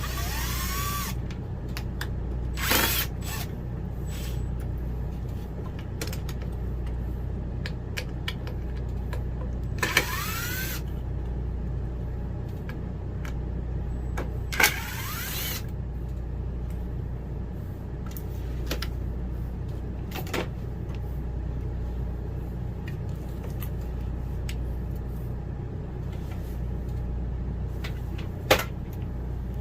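Cordless drill or driver spinning up in a few short runs, each rising in pitch, with a few sharp knocks between them, over a steady low hum.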